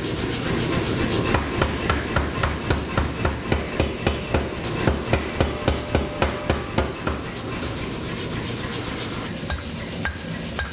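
A hammer striking steel in quick regular blows, about three a second, for some six seconds before stopping, over a steady background noise.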